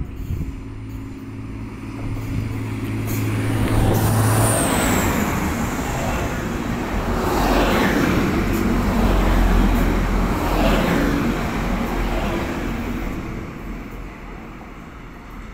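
TransPennine Express Class 185 diesel multiple unit running past along the platform: its engine hum at first, then a building rumble of wheels on rail with a brief high squeal about four seconds in, fading toward the end.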